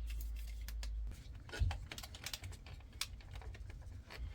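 Light, irregular clicks and taps of hands working small plastic clips and wiring plugs on a steering wheel, with a low rumble that stops about a second in.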